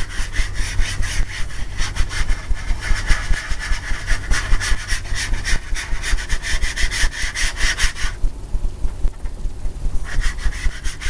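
A 2-inch brush scrubbing liquid clear medium into a canvas in fast back-and-forth scraping strokes, about four a second. The strokes pause for about two seconds near the end, then start again.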